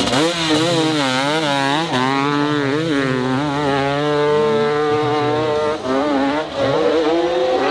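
Dirt bike engine revving hard, its pitch rising and falling over and over as the throttle is worked, with a couple of brief drops in the second half.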